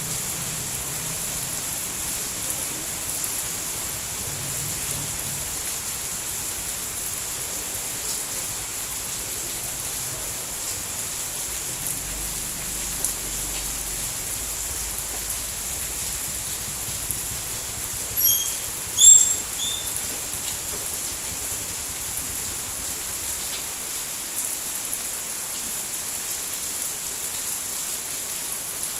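Steady rain falling as an even hiss. About two-thirds of the way through, two brief high chirps sound a second apart.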